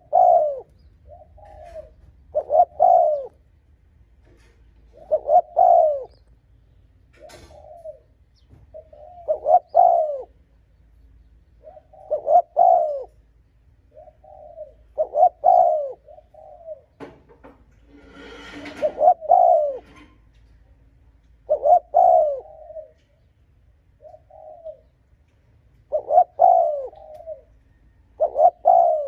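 Spotted dove cooing its repeated song: short throaty coo phrases about every two to three seconds. A brief rustling noise comes about two-thirds of the way through.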